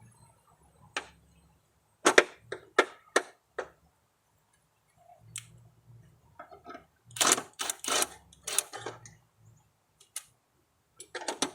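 Sharp metallic clinks and knocks in short runs with pauses between, as a new mower-deck spindle and its bolts are worked against the deck to get a bolt hole to line up.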